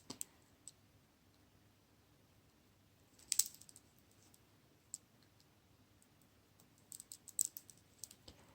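Faint, scattered clicks of turquoise beads and metal wire dangles knocking against each other as they are threaded onto beading wire, with a small flurry a little after three seconds and a run of clicks near the end.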